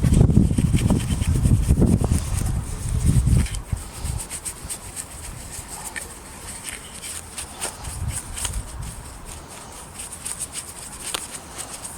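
Rubbing on a wooden surface, as oil finish (Rubio Monocoat) is worked into the wood. It is heavy for the first three seconds or so, then lighter, with scattered small clicks.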